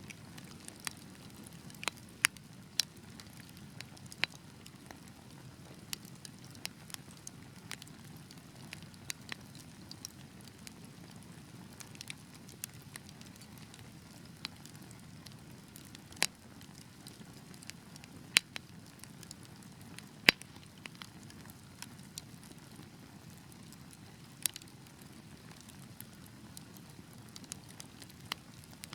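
Wood fire burning with a steady low rumble of flames and irregular sharp crackles and pops, a few of them much louder than the rest.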